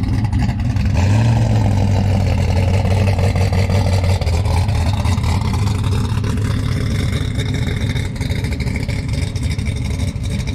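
Drag race car's engine running at a rough, loud idle as the car pulls away, a deep steady rumble whose low note weakens after about five seconds.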